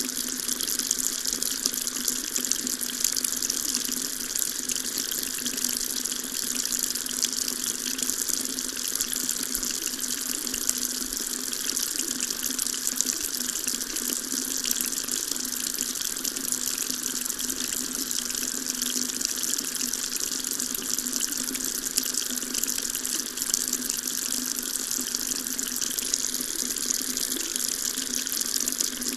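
Water tap running steadily into a sink, an even splashing hiss with no change.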